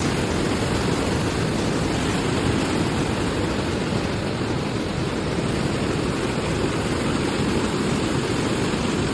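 Steady rushing of floodwater, an even wash of noise without pauses.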